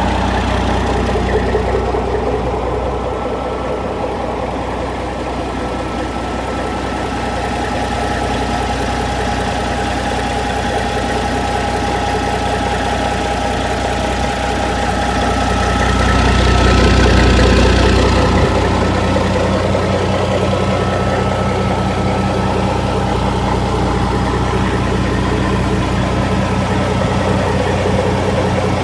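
Caterpillar 3406B inline-six diesel of a 1993 Peterbilt 379 idling steadily, growing briefly louder for a couple of seconds about two-thirds of the way through.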